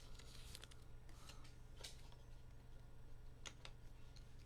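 Near silence: room tone with a low hum and a few faint, short clicks and rustles of trading cards and packaging being handled.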